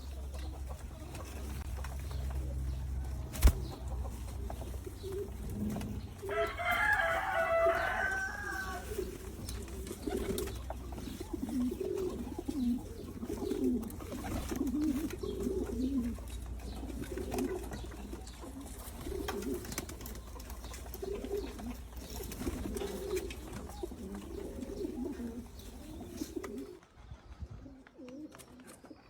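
Qatif pigeons cooing over and over in low, wavering calls, with a brief higher twittering a few seconds in. A single sharp click comes just before the cooing starts.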